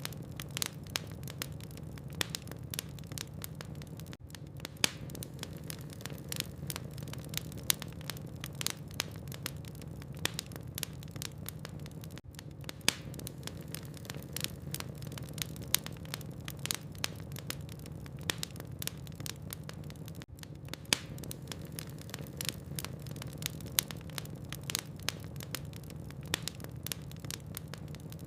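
Wood logs burning in a fireplace: irregular sharp crackles and pops, several a second, over a steady low background of the fire.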